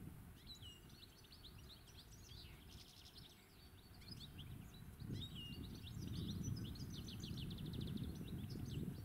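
European goldfinch singing: a fast run of varied high chirps and sweeps, with a quick even trill near the end. Underneath is a low rumbling background noise that grows louder about five seconds in.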